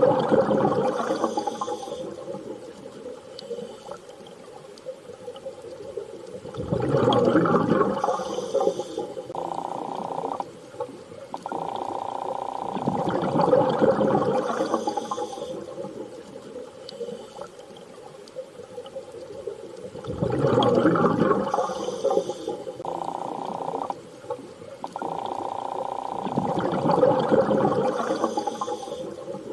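Looped underwater ambience: a rushing water sound swells and fades about every six to seven seconds, with a steady hum-like tone that starts and stops abruptly between the swells.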